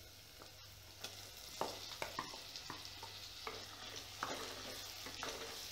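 Mashed aubergine and tomato sizzling faintly as they go into hot oil and spices in a clay pot, starting about a second in. A wooden spatula knocks and scrapes against the clay pot several times as the mixture is stirred.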